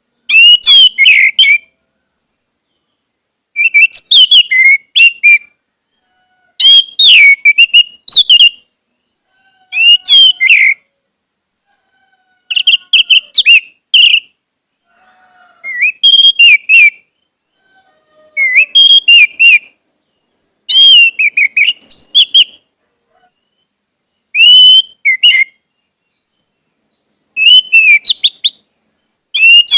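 Orange-headed thrush singing loud phrases of quick whistled and warbled notes, about a second long each, repeated roughly every three seconds with short pauses between.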